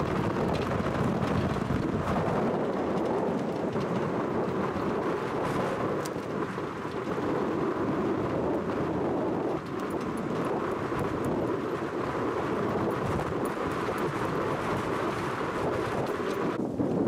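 Game-drive vehicle driving along: a steady engine and road rumble, with wind buffeting the microphone.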